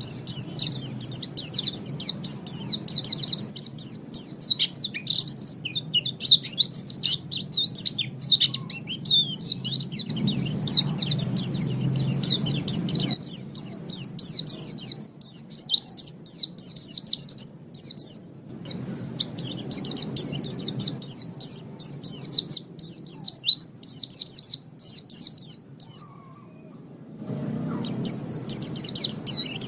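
White-eye (pleci) singing a rapid, high, twittering song in long runs, with a short break about two-thirds of the way through and another near the end.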